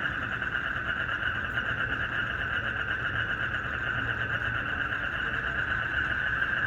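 Night chorus of frogs and crickets, a dense, steady trilling made of fast pulses that never lets up, with a faint low rumble underneath.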